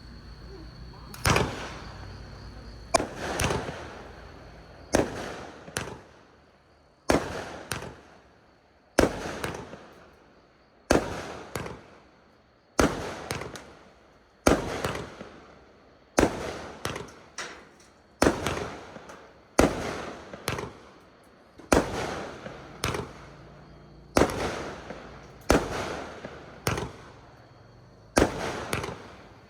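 A 20-shot, 1-inch-tube consumer fireworks cake firing in sequence: one sharp bang about every two seconds, each with a fading tail and smaller follow-up pops.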